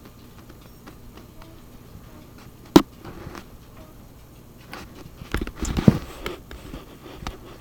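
Kitchen items being handled: one sharp knock about three seconds in, then a quick run of clattering knocks and thumps a couple of seconds later.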